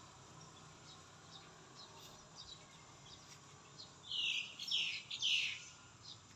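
Birds calling: faint, scattered chirps, then three loud calls in quick succession, each falling in pitch, about four seconds in.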